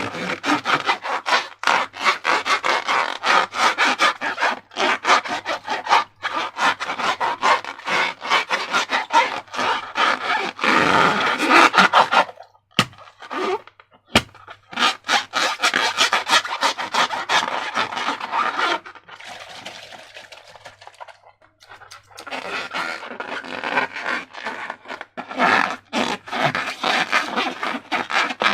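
Slime being worked and squished, with rapid sticky crackling and squelching that goes quieter for a few seconds past the middle.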